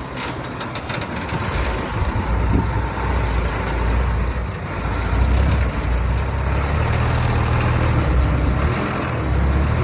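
Heavy diesel engine of earthmoving machinery running hard, its deep rumble growing louder about a second and a half in and staying strong, with a few sharp metallic clicks near the start.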